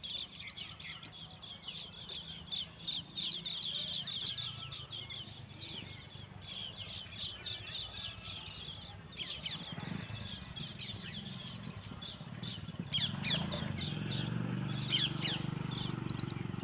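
Small birds chirping in a fast run of high, squeaky tweets, several a second, then a few downward-sliding calls later on. A low hum runs underneath and grows louder near the end.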